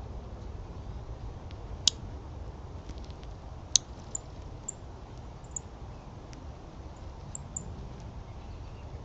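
Small birds giving several short, very high chirps, over a low steady outdoor rumble, with two sharp clicks about two and four seconds in.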